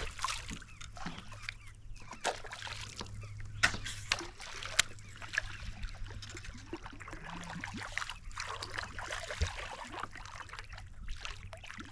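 Light water splashing and trickling around a fishing kayak, with scattered sharp clicks and knocks throughout.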